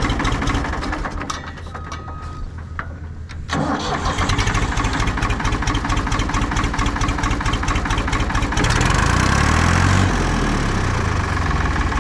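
Combine engine running: it drops quieter for about two seconds, picks back up, then revs up about three-quarters of the way through with the pitch rising, before settling again.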